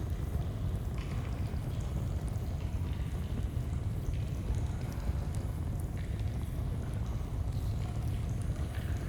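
Steady low rushing of a flowing stream, with faint, scattered crackles of a campfire.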